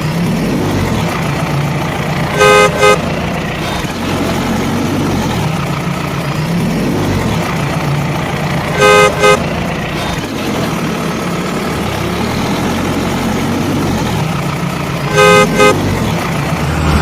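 Vehicle horn honking in pairs, a longer toot then a short one, three times about six seconds apart, over a steady engine-like running noise with a low hum.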